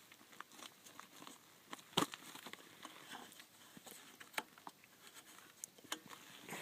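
Faint scattered crackles and clicks, with a sharper knock about two seconds in.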